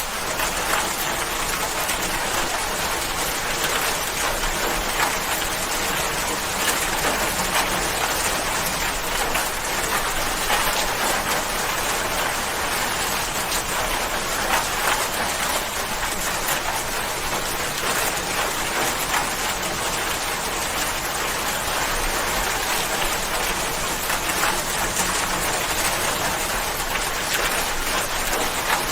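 Steady rain falling, a dense patter of drops on a surface that keeps an even level throughout.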